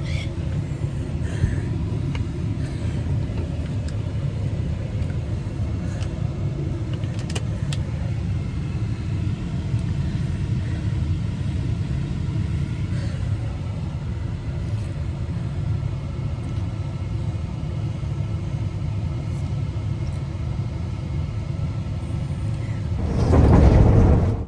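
Steady low drone of a car's interior with the engine running, with a few faint clicks. Near the end comes a brief, louder burst of low noise.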